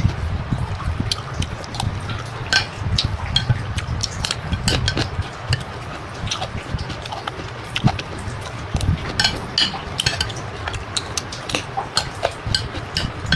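Close-up eating sounds during a mukbang: frequent short clicks and clinks of utensils against dishes, over a steady low rumble.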